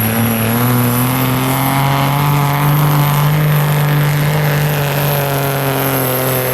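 Pulling vehicle's engine running hard at high, fairly steady revs under load during a truck-and-tractor pull, its pitch rising a little partway through and wavering.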